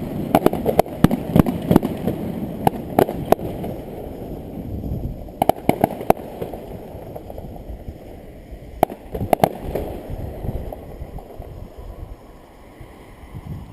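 Fireworks display: sharp bangs and crackling reports in quick clusters over a low rumble. The bangs are densest in the first three seconds or so, come again about five and a half seconds in and around nine seconds in, and the last few seconds are quieter.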